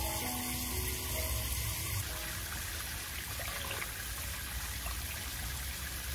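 Steady water noise, a continuous even splashing hiss. Soft background music with held notes runs over it and stops about two seconds in.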